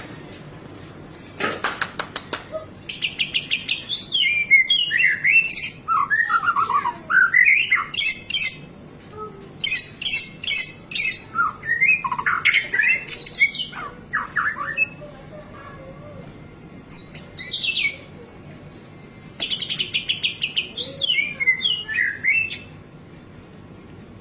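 White-rumped shama (murai batu) singing a varied song full of imitated notes: rapid trills, whistles sliding up and down, and sharp quick notes. It comes in several bursts, with a short pause around the middle and a last long phrase near the end.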